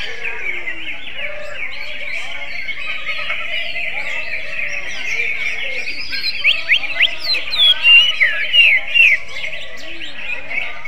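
Cucak ijo (greater green leafbird) singing, its song likened to an oriental magpie-robin's. A run of loud, sharp, quickly rising and falling whistled notes comes about six to nine seconds in, over a continuous background of dense chirping.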